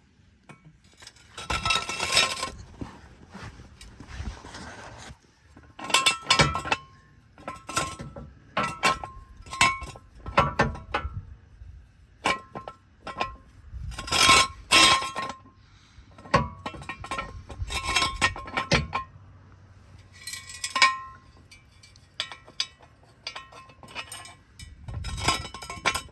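Metal tools or lifting gear being handled and knocked together: a run of irregular clanks and clinks, many ringing with the same tone, in clusters with short pauses between.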